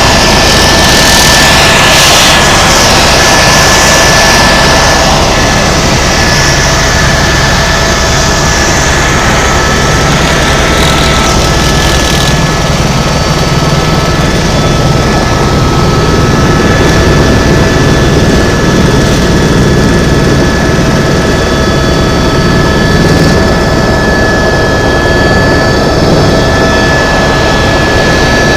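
Helicopter in flight: a loud, steady engine whine with several high tones over a low rotor beat. A hiss of rushing air is stronger in the first dozen seconds, then eases.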